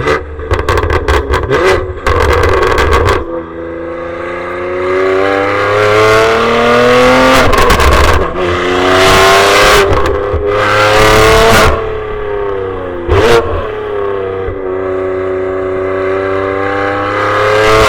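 BMW G87 M2's twin-turbo inline-six, exhaust valves open, run hard through the gears of its six-speed manual. The pitch climbs in several pulls, dropping at each shift and settling to a steadier cruise near the end, with a sharp crack about 13 seconds in. The exhaust is very loud, and the loudest pulls distort the recording.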